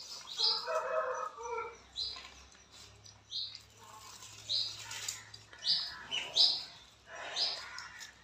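A bird chirping repeatedly: short, high calls, about one a second.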